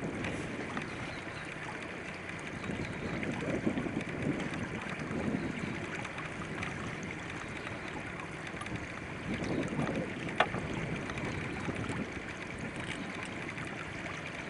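Wind and water noise on a pontoon boat in gusty wind: a steady hiss that swells now and then, with one sharp click about ten seconds in.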